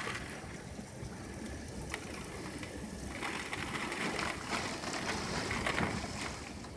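Heavy rain pouring down in a storm: a steady hiss with scattered spatters, swelling a little about halfway through.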